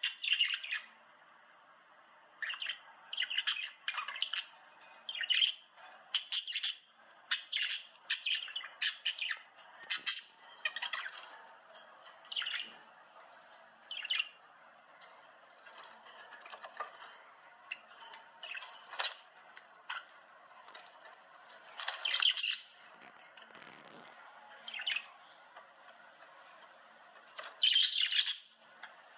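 A bird chirping and squawking in short, sharp calls that come in clusters with brief pauses between them.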